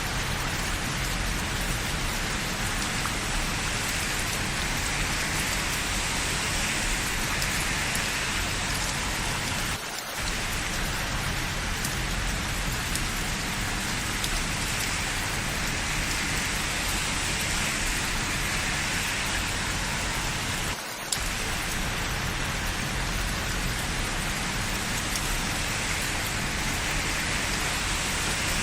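Steady rain falling, an even hiss with two momentary dips in level, about ten and twenty-one seconds in.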